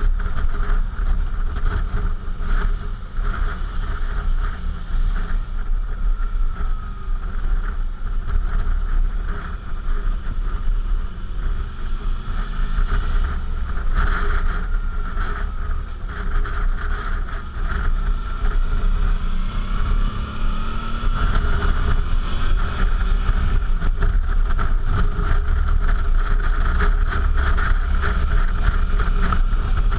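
Suzuki V-Strom motorcycle engine running under way, heavy wind rushing over the GoPro microphone. The engine pitch rises and falls a few times, about halfway through and again about two-thirds of the way in.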